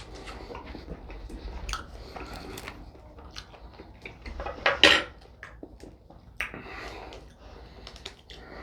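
Knife and fork clinking and scraping on a plate while steak is cut, with chewing in between. One much louder, short noisy burst comes a little before the middle.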